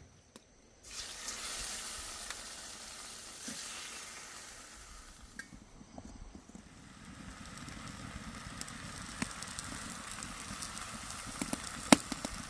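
Food sizzling on a hot surface over a wood fire, a steady frying hiss with small crackles that starts about a second in, dips briefly midway, and is broken by one sharp pop near the end.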